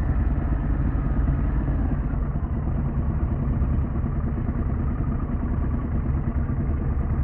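Harley-Davidson Pan America's 1250 cc Revolution Max V-twin running steadily as the motorcycle rides along.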